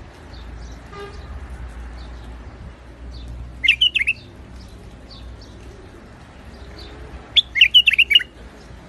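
White-eared bulbul singing two short, loud phrases of quick warbled notes, about four seconds apart. Fainter chirps of other small birds and a low steady hum run behind.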